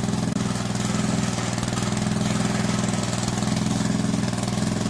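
Small air-cooled engine running at a steady speed just after starting.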